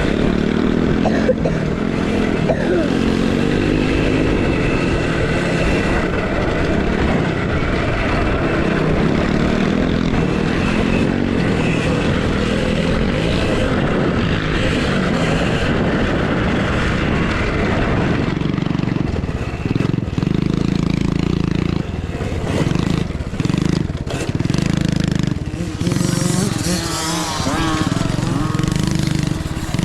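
Small youth motocross bikes racing on a dirt track: engine pitch rising and falling as they rev, mixed with rushing wind noise. After about eighteen seconds it settles into a steadier low drone broken by short gaps, with a voice coming in near the end.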